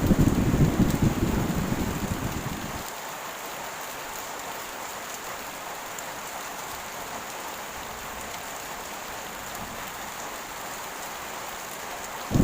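Heavy rain falling steadily. A loud clap of thunder breaks right at the start and dies away over about three seconds, and another begins at the very end.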